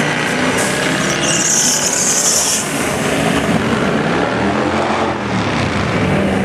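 Twin-turbo C6 Corvette V8 running, with one rev rising and falling about five seconds in. A loud hiss sounds for about a second and a half from roughly a second in.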